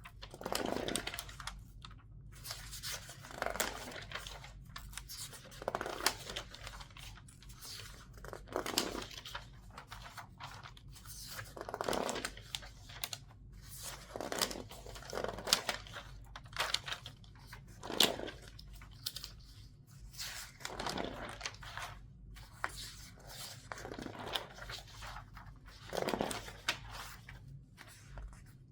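Newsprint pages turned quickly one after another, back to front, each turn a crisp rustle and crinkle about every second or two, with the paper squeezed as it is handled.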